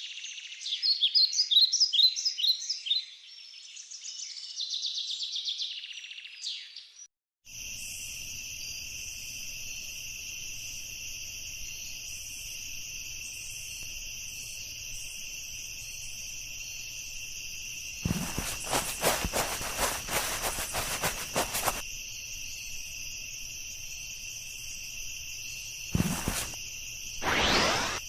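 Chirping birdsong for about seven seconds, then, after a brief gap, a steady high insect trill like a cricket chorus over a low hum, crossed by a burst of clicking noise about two-thirds of the way through and a short rising sweep near the end.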